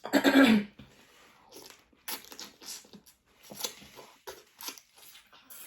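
Close-miked mouth sounds of eating seafood boil: a brief voiced sound at the start, then irregular smacking, crunching and chewing noises.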